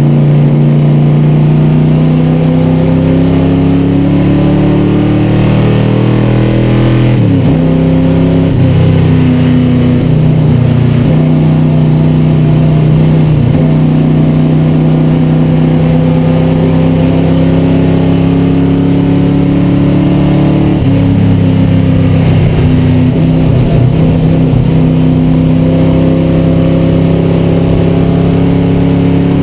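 1962 Ford Galaxie's 427 cubic-inch V8 running hard under load, heard from inside the stripped cabin. The engine note climbs slowly and drops sharply twice, about a quarter of the way in and again about two-thirds through, then climbs again.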